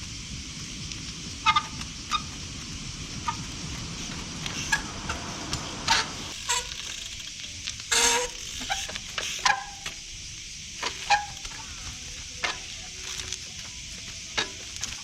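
A trials bike's wet brakes squealing in short, sharp bursts, mixed with knocks from the bike on obstacles, about a dozen scattered events over a steady background hiss.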